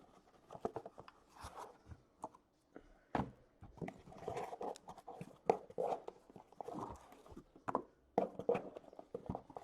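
Cardboard card boxes being worked out of a shipping case by hand: a run of knocks, scrapes and rustling.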